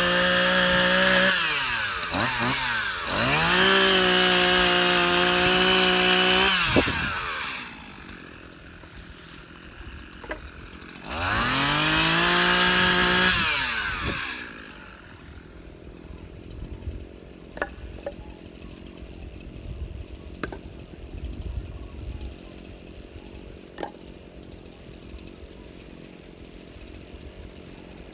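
Small engine revved hard, its pitch sweeping up and holding high, eased off, then revved again about eleven seconds in, before dropping back to a low idle with a few sharp clicks.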